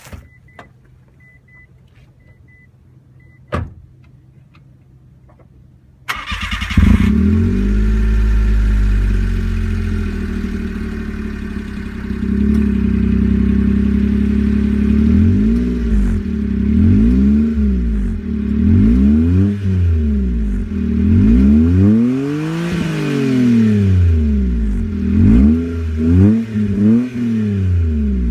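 Mitsubishi Minica kei car's engine breathing through an aftermarket 'Wanpaku Muffler Gontaro' exhaust. After a few short beeps and a click, it is cranked and catches about six seconds in, then idles. It is revved up and let fall again and again, with quicker blips near the end.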